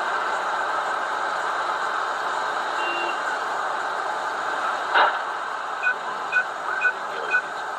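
Steady vehicle and road noise, broken about five seconds in by a single sharp knock. Then a vehicle's electronic warning beeps start, short and evenly spaced at about two a second.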